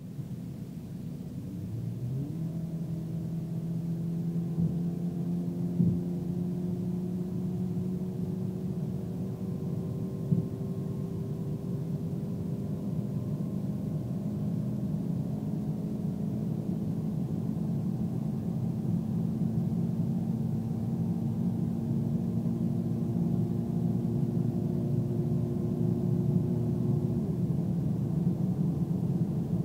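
Scion FR-S 2.0-litre flat-four boxer engine under full throttle, heard from inside the cabin: the revs jump about two seconds in, then climb slowly at high speed in the upper gears, dropping with an upshift partway through. Two brief knocks stand out over the engine.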